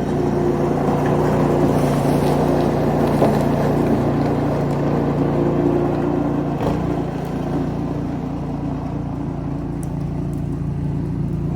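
Small gasoline engine of a snowblower running steadily at constant speed.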